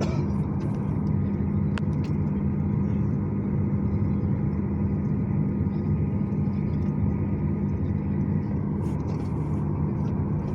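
Steady low rumble and hum inside the cabin of a Boeing 737-800 on the ground just after landing, with a couple of faint clicks.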